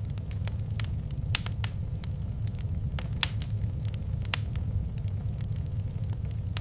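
Wood fire crackling in a fireplace: irregular sharp pops and snaps over a steady low rumble of the flames, with three louder pops.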